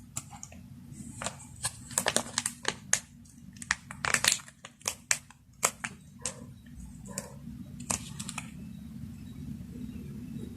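Plastic or paper food packaging crinkling and crackling as it is handled, in many short, sharp crackles over about seven seconds.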